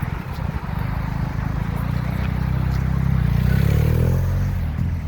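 Motorcycle engine running, its pitch climbing about three and a half seconds in.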